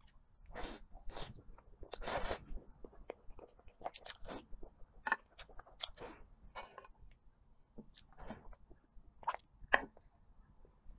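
A person chewing and eating mouthfuls of soft cream cake from a spoon: an irregular run of short bites and chewing sounds, with longer, louder chewing about one to two and a half seconds in.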